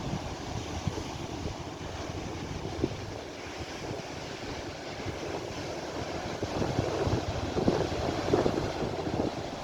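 Sea waves surging and breaking, with wind buffeting the microphone. The surf swells louder in the second half.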